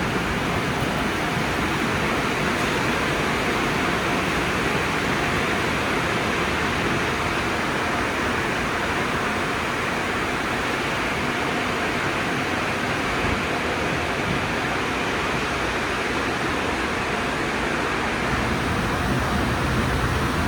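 Steady rushing noise of a conveyor car wash tunnel's air dryers, with a faint steady hum underneath.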